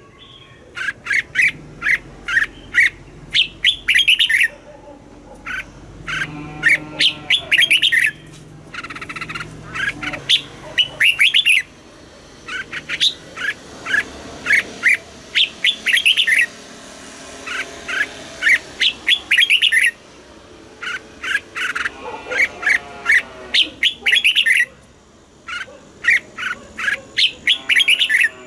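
Red-whiskered bulbul singing: rapid runs of short notes, phrase after phrase with brief pauses between.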